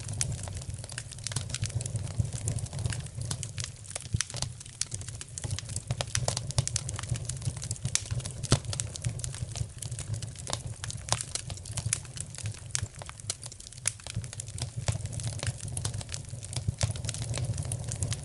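Wood fire burning in a fireplace: a steady stream of irregular crackles and sharp pops over a low, even rumble.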